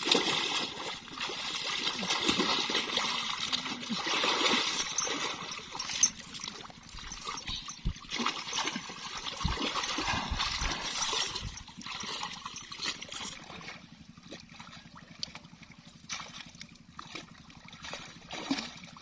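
Water splashing and trickling with scattered small knocks, busy for about the first twelve seconds and then quieter.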